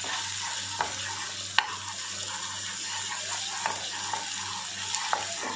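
Chopped onions and ginger-garlic paste sizzling steadily in hot ghee in a nonstick kadhai while being stirred with a spatula. A few sharp taps and scrapes of the spatula on the pan sound through it, the loudest about a second and a half in.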